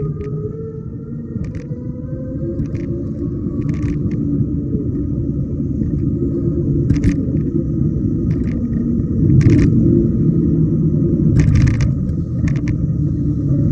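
Riding an electric bike: heavy wind rumble on the microphone and road noise, with scattered clicks and knocks from bumps. A faint motor whine rises in pitch at the start and again near the end.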